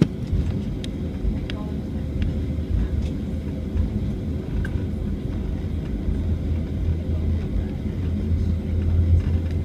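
Cabin noise near the tail of an Airbus A320: a steady engine hum over a heavy low rumble that grows stronger about six seconds in, typical of the aircraft accelerating for takeoff.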